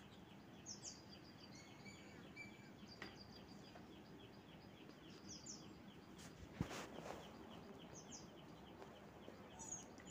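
Near silence with faint bird chirping repeating steadily in the background, and one soft knock about two-thirds of the way through.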